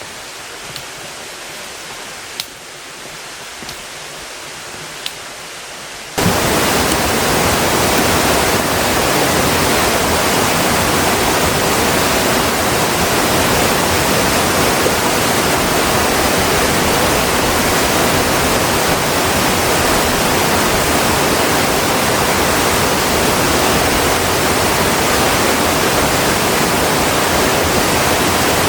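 Quiet mountain-trail ambience with a few faint clicks, cut off about six seconds in by the loud, steady rush of water from a mountain stream or cascade that runs on unchanged.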